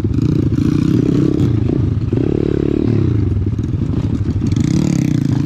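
Pit bike's small single-cylinder four-stroke engine running under way, its pitch rising and falling once about two to three seconds in as the throttle opens and eases.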